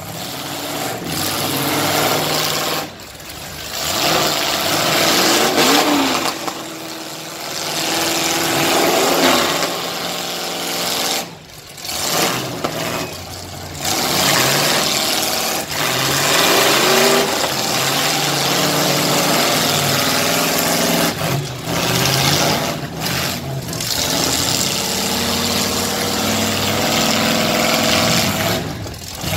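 Demolition derby cars, SUVs and trucks running under heavy throttle, with several engines revving up and down at once.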